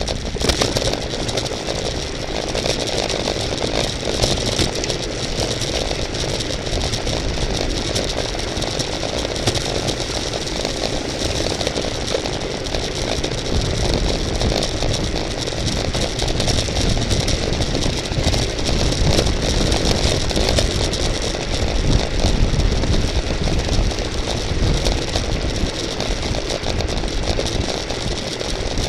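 Steady wind rush and road noise from a road bicycle moving at speed, with a rattle of chain and drivetrain over a low buffeting rumble.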